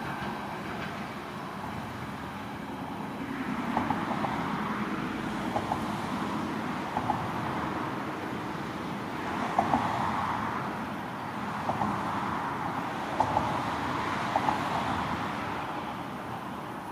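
Train rolling along the track, its wheels clicking in pairs over rail joints every second or two while the rolling noise swells and eases.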